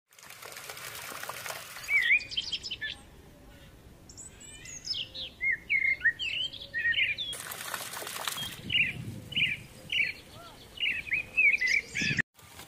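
Small birds chirping and singing in many quick, short, rising and falling calls. There is a stretch of rushing hiss at the start, and another just past the middle.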